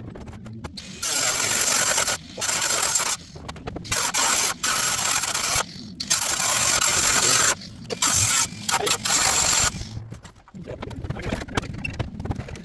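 Cordless drill or impact driver running in about eight short pulls of the trigger, each starting and stopping abruptly with a steady high whine, typical of driving roof screws into metal roofing sheets.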